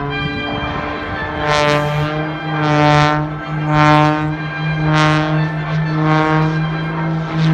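Propeller-driven aircraft engine droning at a steady pitch, swelling and fading about once a second.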